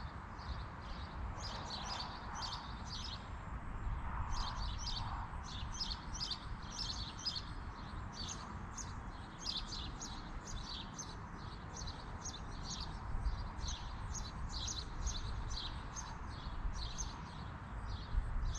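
A bird chirping over and over, short high chirps a few times a second, over a faint low outdoor rumble.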